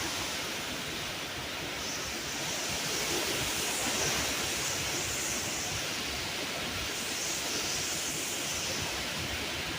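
Hurricane wind rushing steadily, its hiss swelling and easing in gusts every couple of seconds.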